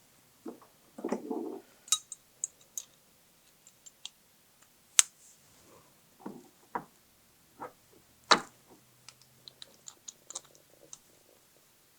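Irregular clinks and knocks of small metal tools and parts being handled, with the sharpest near the middle and one loud knock a little past two-thirds of the way in.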